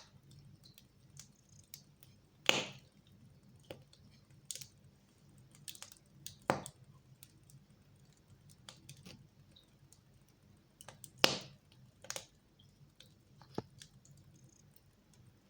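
Fire crackling in a fireplace, with irregular sharp pops and snaps over a faint steady background. Three louder cracks stand out: about two and a half seconds in, about six and a half, and about eleven.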